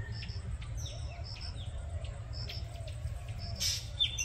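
Birds calling among bamboo: a short, high double chirp repeats about once a second, with a few falling chirps between, over a steady low rumble. A brief, louder rasping burst comes near the end.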